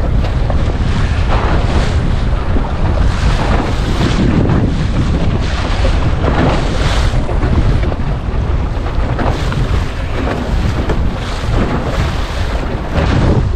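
Strong wind buffeting the microphone over the rush and splash of waves against a small centreboard sailing dinghy's hull, with a surge of splashing every second or two.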